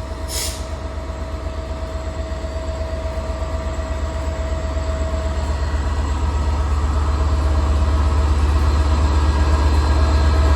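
Class 67 diesel locomotive's two-stroke V12 engine working hard as it pulls away, a heavy pulsing rumble growing steadily louder.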